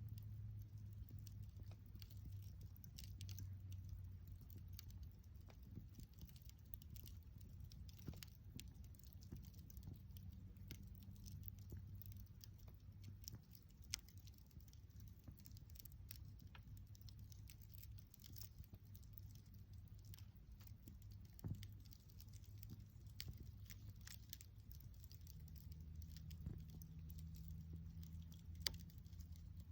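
Wood bonfire crackling: scattered small snaps and ticks, with a few louder pops, over a steady low hum.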